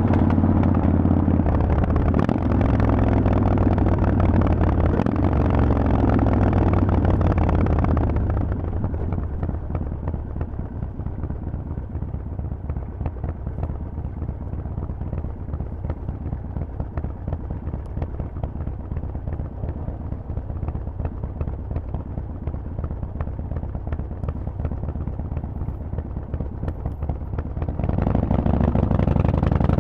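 Harley-Davidson Forty-Eight's air-cooled 1200 cc V-twin through a Vance & Hines exhaust, running loud under throttle. About eight seconds in it drops to a quieter, pulsing idle for about twenty seconds. Near the end it opens up loud again.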